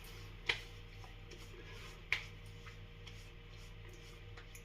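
Two light, sharp clicks, about half a second and two seconds in, with a few fainter ticks, over a low steady hum: quiet handling sounds.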